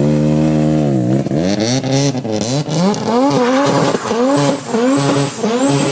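Mazda RX-7 FD's rotary engine under hard throttle: held high, it drops about a second in, then revs up and down in quick, repeated blips. A thin high squeal comes in near the end.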